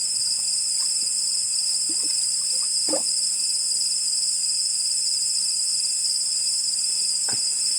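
Dense chorus of insects, crickets among them, a steady high-pitched trilling that does not let up, with a couple of faint brief sounds around the middle and near the end.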